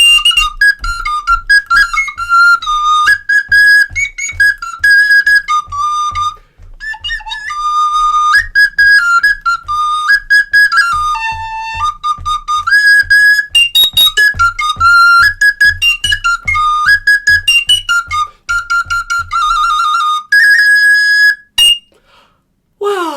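Small high-pitched flute playing a simple tune in short, separated notes that step up and down, whistle-like in tone, stopping about two seconds before the end.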